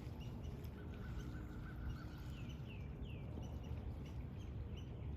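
Birds calling: many short chirps and a few falling whistled notes, with a buzzy held trill early on, over a steady low rumble.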